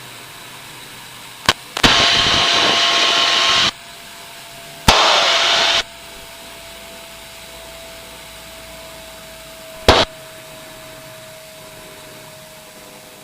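Cockpit audio from an Aero L-29 Delfín jet trainer in aerobatic flight: the jet engine runs as a steady faint hum with a thin whine. Two loud bursts of hiss on the radio/intercom channel break in, one of about two seconds and one of about one second, and sharp clicks sound twice.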